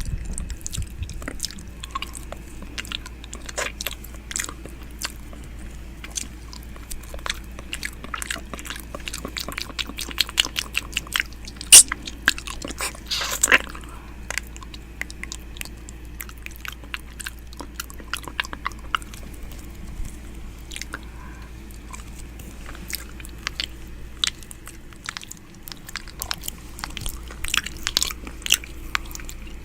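ASMR 'ear eating' mouth sounds made right at the microphone: a steady stream of wet lip smacks, clicks and nibbling noises, thickest and loudest about ten to fourteen seconds in and again near the end.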